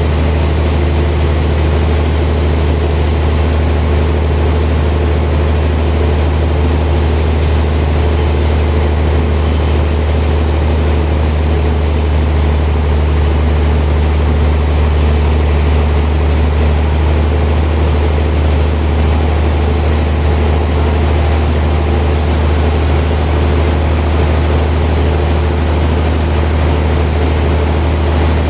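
Sawmill machinery running steadily, a constant low hum with no change in pitch or level.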